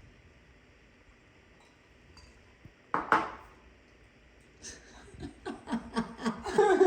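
Glassware and tableware clinking in a run of sharp clicks, starting after a few seconds of quiet, with one short voice sound just before and low talk building under the clinks.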